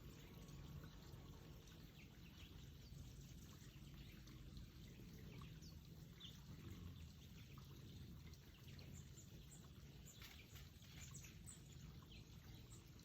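Faint backyard bird chirps, short and scattered, over a low steady rumble; the chirps come thicker after about nine seconds.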